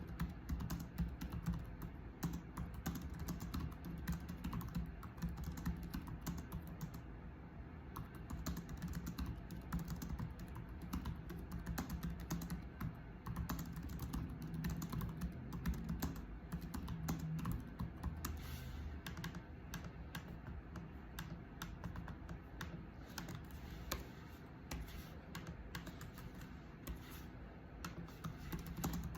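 Continuous typing on a computer keyboard: a dense, irregular run of key clicks.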